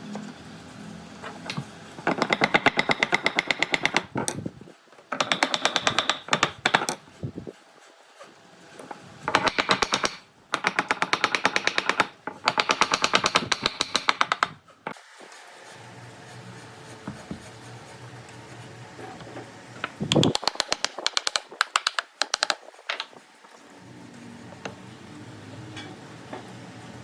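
A woodworking tool striking in rapid, evenly spaced runs of one to two seconds, about seven bursts in all, with a low hum between them.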